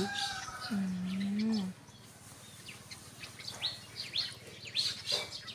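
Small birds chirping: a quick series of short, high, downward-sliding chirps, a few a second, from about two seconds in.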